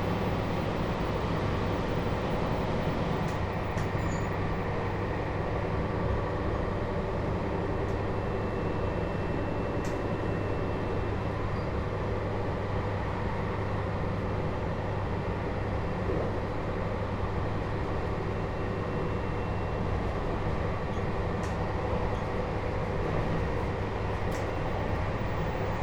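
JR Hokkaido 721-series electric train running at a steady speed, heard from inside the Toshiba GTO motor car: an even, low rumble of wheels and running gear with a few faint ticks.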